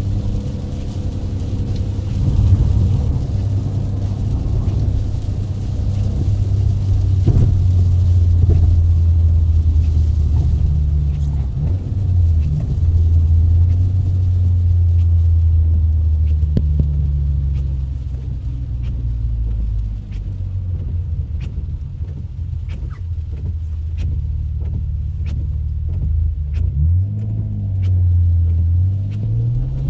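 Car engine under way, a low steady drone that dips about two-thirds of the way through, then revs rise quickly near the end as the car accelerates. Faint scattered ticks sound over the engine in the second half.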